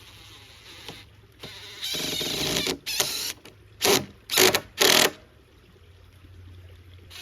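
Cordless impact driver driving a screw into wooden framing: a run of about a second and a half, then three short loud trigger bursts about half a second apart to seat the screw.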